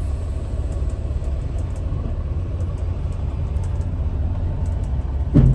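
Semi truck's diesel engine running with a steady low rumble. About five seconds in comes a short, loud thump with a quick falling tone.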